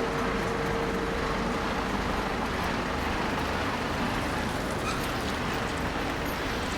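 City road traffic on wet streets: a steady wash of tyre and engine noise, with a faint steady tone that fades out about two seconds in.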